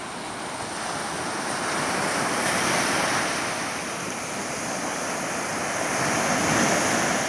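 Sea waves washing onto the shore, the surf swelling twice.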